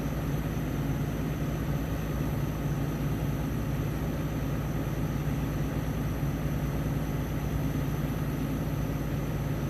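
Caterpillar 320D excavator's Cat ACERT diesel engine running steadily at a constant speed.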